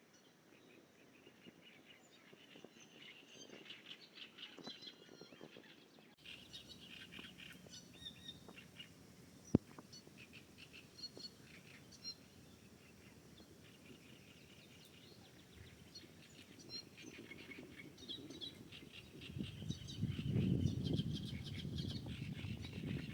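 Small songbirds chirping and twittering, with one sharp click about ten seconds in. In the last few seconds a louder low rumbling noise comes up under the birdsong.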